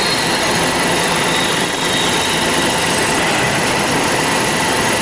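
Band saw running steadily at speed: a loud, even machine noise with a few steady high-pitched tones over it.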